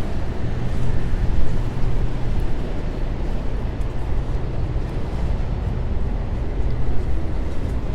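City street traffic: a steady low rumble of vehicles passing and idling on a downtown street.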